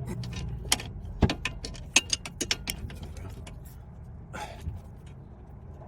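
Metal hand tools and fasteners clicking and clinking as car suspension parts are undone: a quick run of sharp clicks over the first three seconds, then a brief scraping noise about four seconds in.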